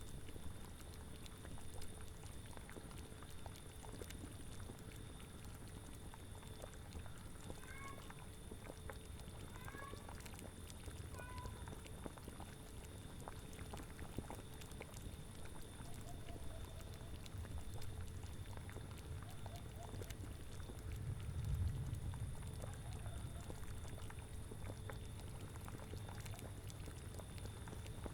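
A cauldron bubbling steadily at the boil, with a cat meowing in a few short calls about a third of the way in and fainter calls a little later. A brief deep swell of sound comes about three-quarters of the way through.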